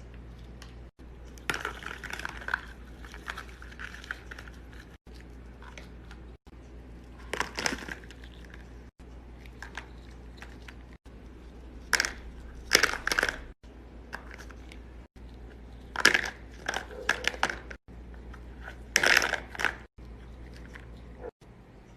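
A series of short crunching, crushing sounds in bursts, changing every couple of seconds with the edits, the loudest clusters about halfway through and again near the end; a faint steady low hum lies underneath.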